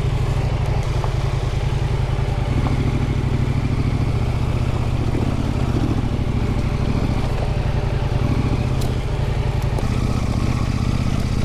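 Husqvarna Norden 901 adventure motorcycle's parallel-twin engine running at an even, steady pace on a dirt trail.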